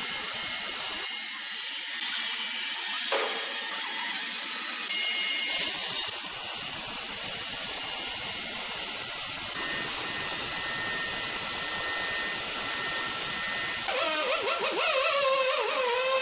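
Sawmill machinery running: a steady hissing mechanical noise with thin high whining tones. It changes abruptly about a second in and again about five seconds in, and a wavering whine comes in near the end.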